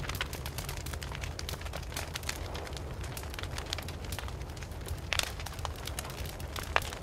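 Wood fire crackling: a dense run of small sharp pops and snaps over a low steady rumble. A few louder pops come about five seconds in and again near the end.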